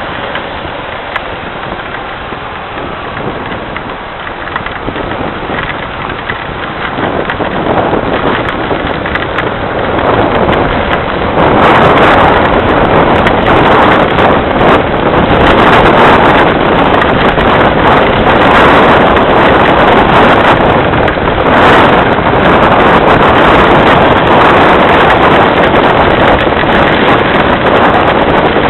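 Heavy rain pouring down. It swells over the first ten seconds or so, then stays steady and very loud.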